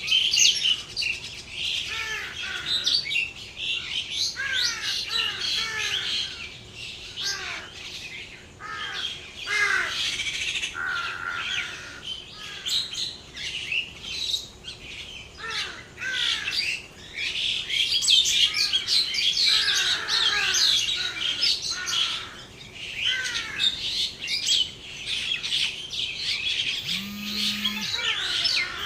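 Many small birds chirping and chattering at once, with a dense stream of short, high, downward-sweeping calls. Near the end a cow gives a short low moo.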